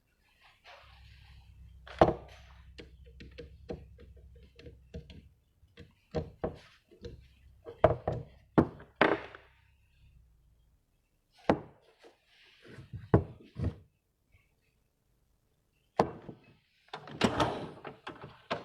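A series of irregular knocks and thuds, some sharp and loud, with a low steady hum through roughly the first ten seconds.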